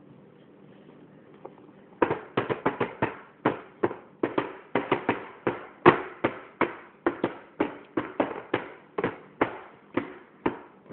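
Hands clapping out a fast, uneven beat, about three or four sharp claps a second, starting about two seconds in.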